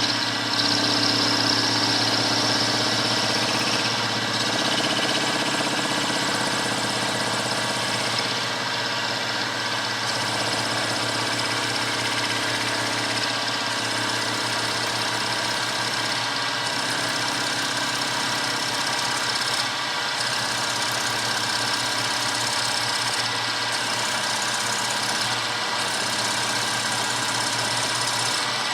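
Milling machine running steadily with an end mill, cutting counterbores for screw heads in a small workpiece. A constant motor hum with several steady tones over it, holding even throughout.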